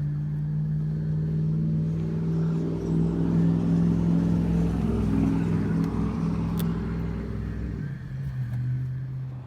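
A motor running with a steady hum that starts abruptly, drops lower in pitch about eight seconds in, and then stops abruptly.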